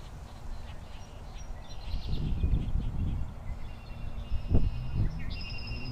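Birds chirping and calling over an outdoor background. About two seconds in, a low rumbling starts, and two sharp thumps follow near the end.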